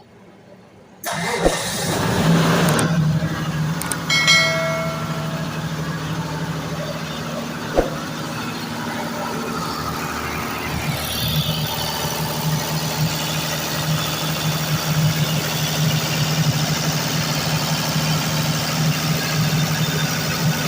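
Hino diesel engine of a generator set starting about a second in, then settling into a steady idle. A brief high whine comes about four seconds in, and there is a single click near eight seconds.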